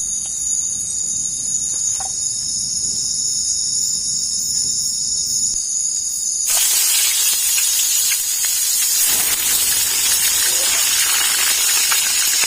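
Night forest insects droning in several steady high tones. About six and a half seconds in, the tones stop and a loud, even hiss takes over.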